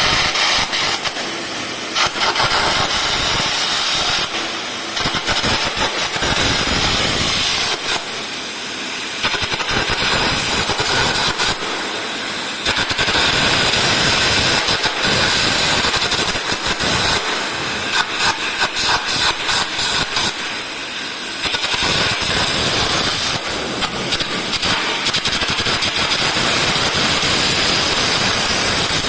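Arc gouging machine working steel: a loud continuous hiss and crackle, its sound shifting in sections every few seconds.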